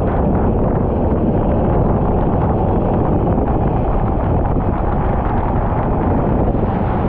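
Racing kart running on track: a steady, loud blur of engine noise and wind buffeting on the microphone, with no distinct engine pitch standing out.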